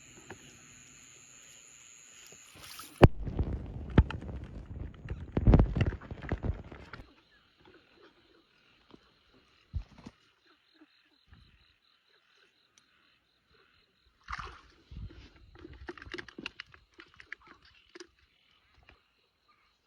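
Shallow paddy-field water splashing and sloshing in two spells: the first begins about three seconds in with a sharp click, and the second comes about fourteen seconds in. A faint, steady, high-pitched insect chirring carries on underneath.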